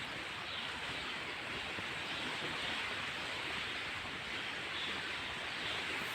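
A steady rushing hiss outdoors, even throughout, with no distinct events.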